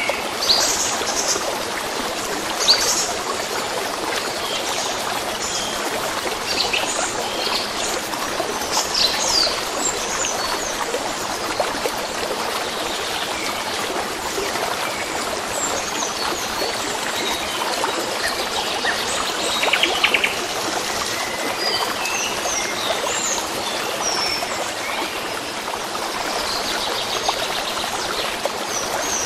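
A stream of water running steadily, with small birds chirping and calling over it on and off.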